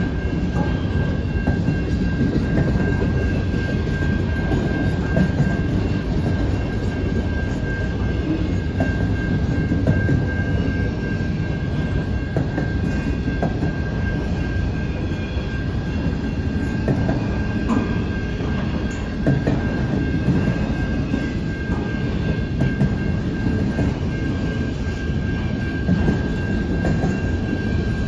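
Freight train's autorack cars rolling slowly past: a steady low rumble of wheels on rail with a few light clunks, and a thin steady high-pitched whine over it.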